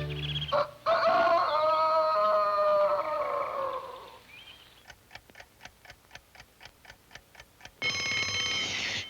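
Orchestral cartoon score fading out, then a clock ticking at about four ticks a second, then an alarm clock bell ringing for about a second near the end.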